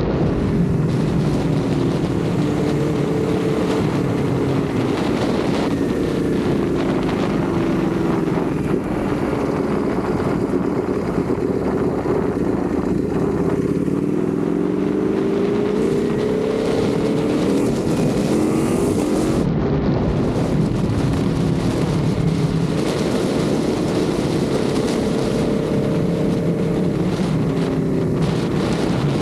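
Ducati Panigale V4 sportbike's V4 engine running under way, its note rising and falling several times as the revs change, with a rush of wind over the microphone.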